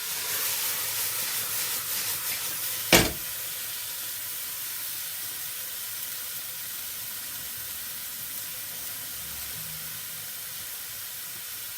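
Vegetables sizzling in a soup pot, a steady hiss, with one sharp knock about three seconds in.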